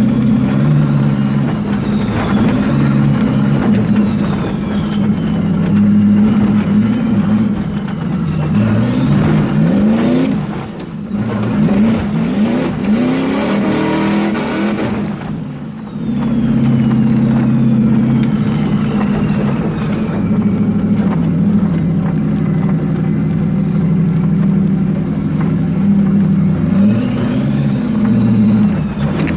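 Turbocharged 454 big-block V8 running hard under load, with a faint turbo whine above the engine note. Around the middle the engine pitch falls and climbs several times as the revs drop and build again, with a hiss for a few seconds.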